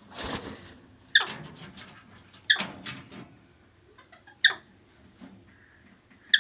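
Pet parrot calling in short, sharp squawks, about five of them, each dropping quickly in pitch; the first is a harsher, noisier screech.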